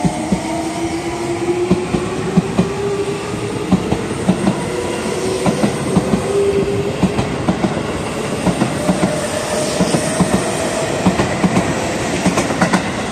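Seibu 20000-series electric train accelerating away from a station: its traction motors whine, rising slowly in pitch. Over the whine comes the clickety-clack of the wheels over rail joints, quickening as the train gains speed.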